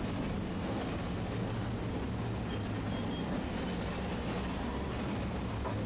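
Tosaden streetcar running along its line, a steady low rumble and hum of motor and wheels on rail, with a few faint short high-pitched tones in the middle.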